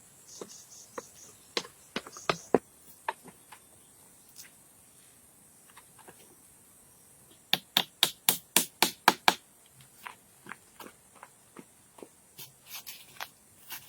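Sharp knocks of hand tools striking wood: scattered single blows at first, then a quick run of about eight strikes around the middle, then lighter taps.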